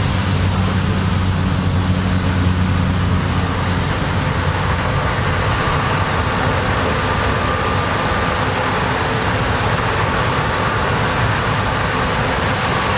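Combine harvester running while harvesting corn: a steady engine and machine noise. The low engine hum is strongest for the first few seconds and then fades, while a higher steady whine comes in about halfway.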